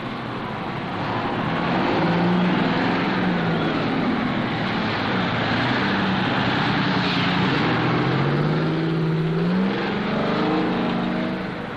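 Motor engines running, their pitch slowly rising and falling, over a loud steady mechanical noise.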